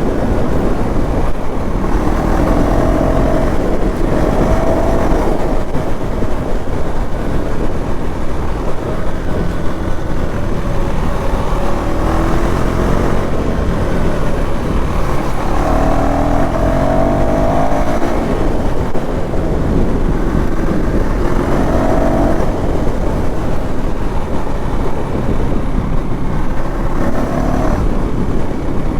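KTM Duke 390 Gen 3's single-cylinder engine running through its stock exhaust, its pitch rising and falling several times as the revs go up and down, over a steady rush of noise.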